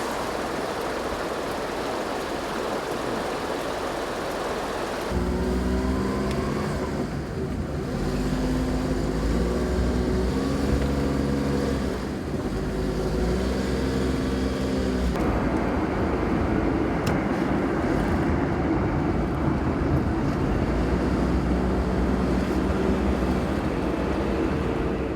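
Road vehicle driving: steady road and wind noise, joined about five seconds in by a low engine hum whose pitch holds and shifts in steps.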